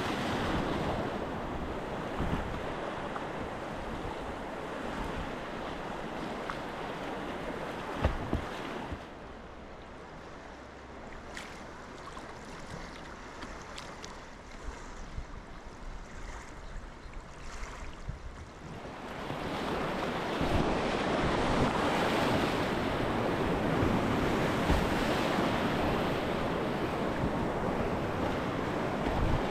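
Flowing river water rushing around a kayak, with occasional paddle splashes. The rush drops to a quieter stretch about a third of the way in and swells again a little past the middle.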